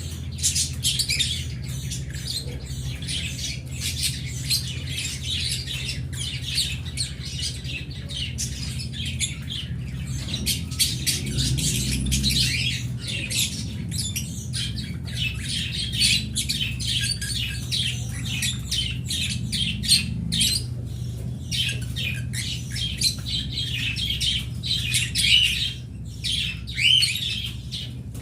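A flock of small cage birds, such as budgies, lovebirds and finches, chattering, chirping and squawking together without a break, with louder squawks now and then. A steady low hum runs underneath.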